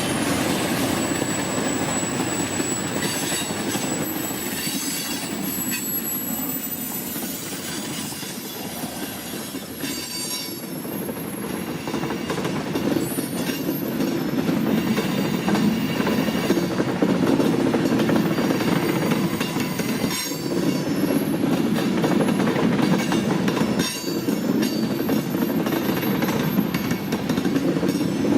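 Cars of a CSX manifest freight train rolling past, a steady heavy rumble of wheels on rail. High thin wheel squeals come in the first few seconds.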